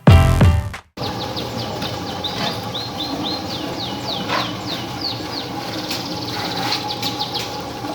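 Small birds chirping: a quick, irregular run of short, high, falling chirps over a steady background noise. A stretch of music cuts off about a second in.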